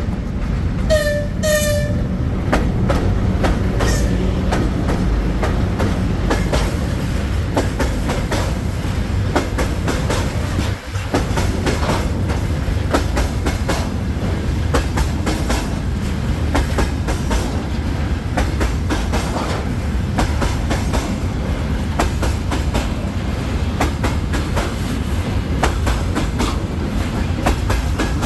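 Freight train going by: two short horn blasts about a second in, then the steady rumble of the passing wagons with their wheels clicking over the rail joints.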